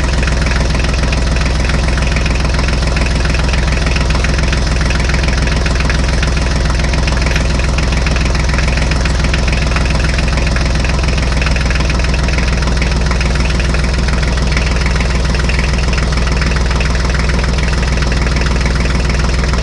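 Heavy diesel machine engine, as of a JCB backhoe or tractor, idling steadily with a fast, even chug.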